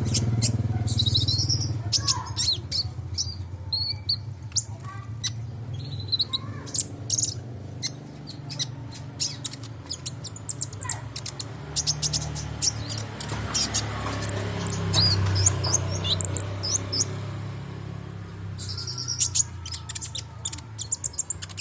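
A sunbird (kolibri ninja) singing: rapid, high, sharp chirps and short trills in bursts, busiest at the start and again near the end, over a steady low hum.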